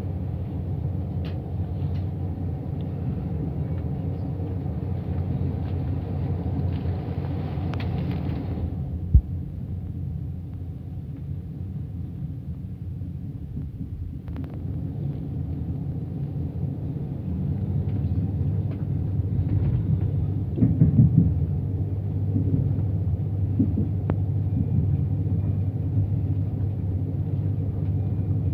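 A passenger train's running rumble, heard inside the carriage while travelling at speed. There is one sharp knock about nine seconds in, and the rumble grows louder in the second half, with some clatter a little after twenty seconds.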